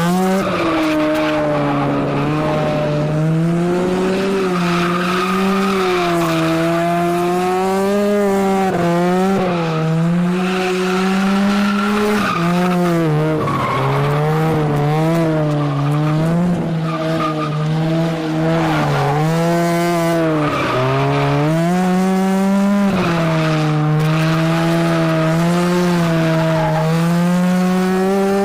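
Mazda RX-7 FC's Bridgeport-ported rotary engine held at high revs while drifting, the revs swinging up and down, with tyres squealing and skidding.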